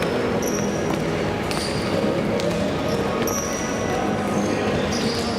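Futsal game in a sports hall: shoes squeaking sharply on the court floor several times and the ball knocked about in a few sharp thuds, over the steady echoing din of the hall.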